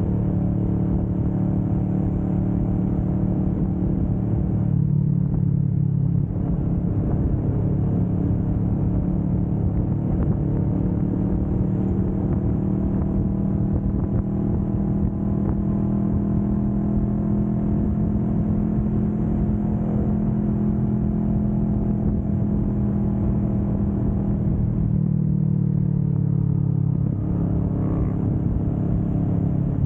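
Kawasaki Vulcan S 650's parallel-twin engine running steadily at highway speed. Its note rises slowly through the middle and shifts down about five seconds before the end.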